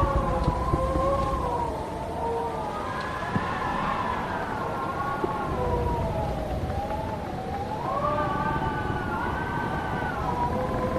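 Wind howling through an old barn: several wavering whistling tones that slowly rise and fall together, over a low rumble of gusts.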